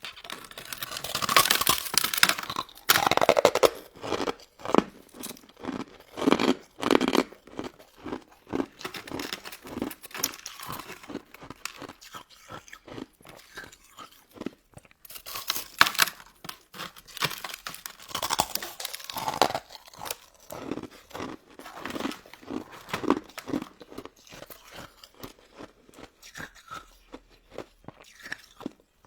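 Close-miked crunching and chewing of a crisp, icy crystal dessert. Loud crackly crunches come near the start and again about halfway through, with quieter chewing strokes between.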